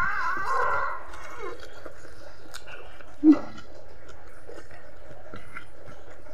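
A person chewing a mouthful of leafy greens close to the microphone, with wet mouth clicks and smacks. A short vocal sound comes at the start, and one louder brief sound about three seconds in.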